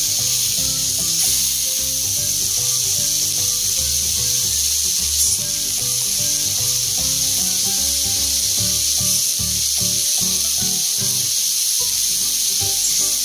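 Chicken skewers and beef pieces sizzling on an electric grill plate, a steady high hiss, with background music underneath.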